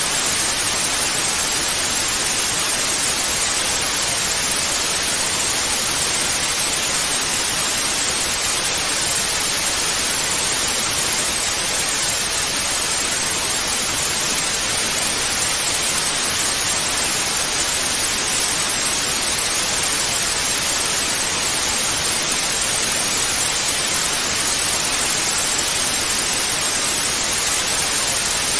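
Analogue TV static: a steady, even hiss that is strongest in the upper range and never changes.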